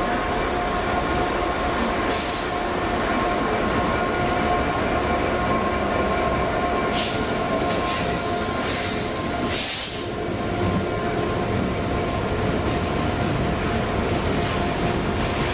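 Train running at a station with a steady whine, broken by short hissing bursts about 7 and 10 seconds in.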